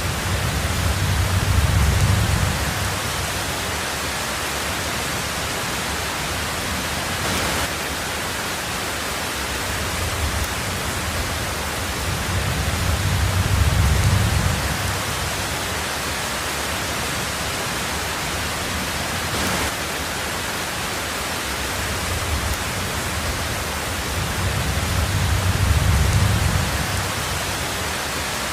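Heavy rain on a tin roof, a steady hiss. A low rumble of thunder swells and fades three times, about every twelve seconds, with a faint tap between the rumbles.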